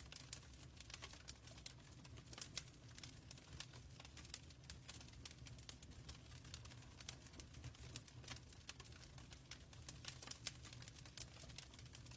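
Faint wood fire crackling in a fireplace: quick, irregular pops and snaps over a steady low rumble.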